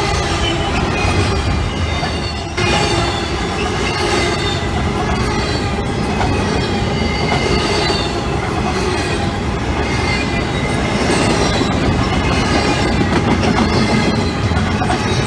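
Double-stack intermodal freight train's well cars rolling past close by: a steady rumble of steel wheels on rail, with thin high wheel squeal wavering over it and a few sharp clicks.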